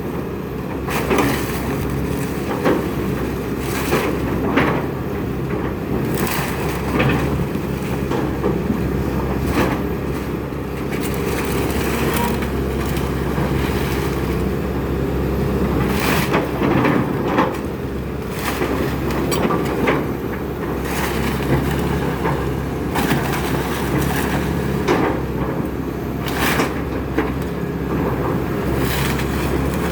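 Excavator engine running steadily while a house's wooden structure is torn down, with repeated irregular cracks, snaps and crunching of breaking wood and debris.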